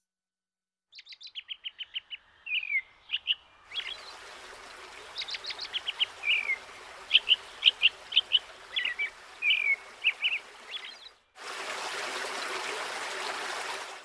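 Birds chirping and calling: a quick run of about ten chirps, then scattered calls over a steady background hiss. Near the end the calls stop and a louder steady rushing noise takes over for a couple of seconds.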